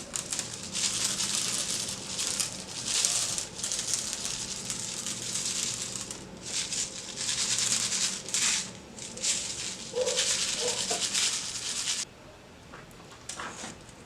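Crinkling and rattling of small glass crystal stones and their plastic packaging being handled, in uneven bursts that stop abruptly near the end.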